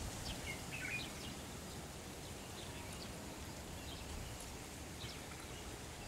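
Quiet rural ambience: a faint steady hiss with scattered small bird chirps, a short run of them in the first second.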